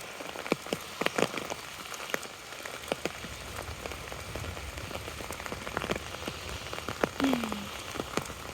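Heavy rain drumming on an umbrella held overhead, with many sharp drop impacts over a steady hiss. A brief low falling sound comes near the end.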